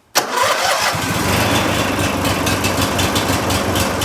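Twin-cylinder riding lawn mower engine, fitted with a new battery and new spark plugs, starting on its electric starter: it catches almost at once about a fifth of a second in, revs up over the first second and then runs steadily.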